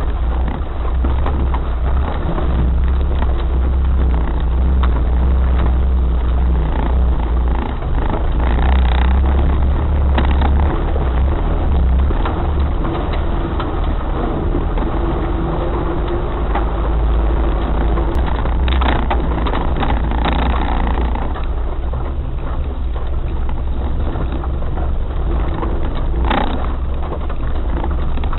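Off-road vehicle driving, its engine running steadily with a strong low rumble. A few short knocks and clatters come through, around two-thirds of the way in and again near the end.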